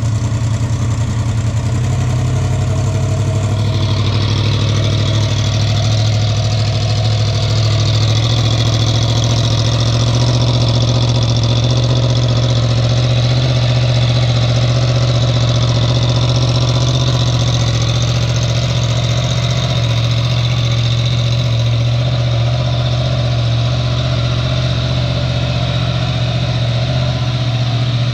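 Yamaha MT-10's crossplane inline-four engine idling steadily just after start-up, running without its muffler.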